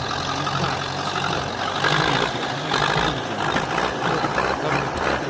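Tractor engine running steadily, with louder, rougher bursts of mechanical noise about two to three and a half seconds in.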